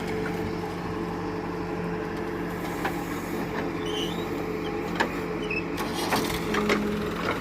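Diesel engine of a heavy farm vehicle running steadily, with a few sharp clanks or knocks in the second half.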